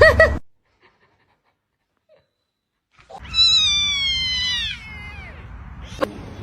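A cat gives one long meow that falls in pitch, about three seconds in, after a stretch of dead silence.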